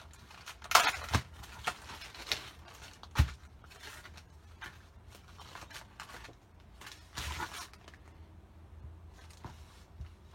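Rustling and a handful of light, irregular knocks as craft supplies are picked up, moved and set down on a table. Most of it falls in the first few seconds, with one more cluster near the middle.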